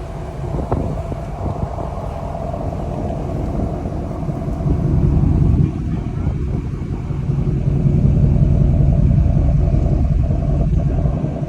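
A car driving, with a steady low rumble of engine and road noise that swells about halfway through and again later.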